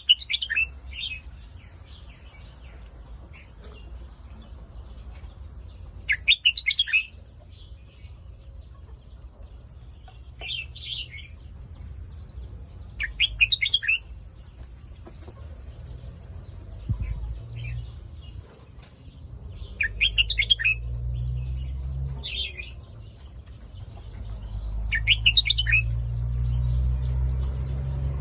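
Red-whiskered bulbul singing short, loud warbling phrases every few seconds, about eight in all. A low rumble builds underneath in the second half.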